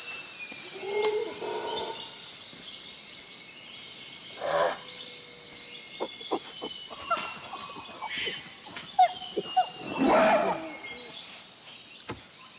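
Wild animal and bird calls, including slow falling whistles, over a steady high-pitched tone, with the loudest call about ten seconds in.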